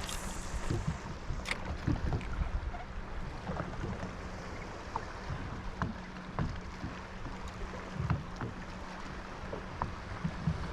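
Small boat moving along on the water: a steady low wash of water and wind noise with scattered light knocks against the hull, and a faint steady hum underneath.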